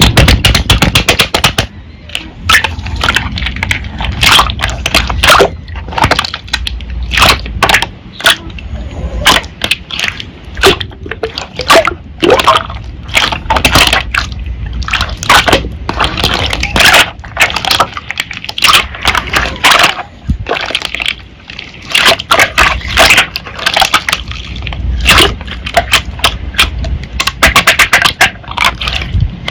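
Slime being squeezed, pressed and stretched by hand, with wet squelching and a dense, irregular run of sharp pops and clicks as air pockets burst.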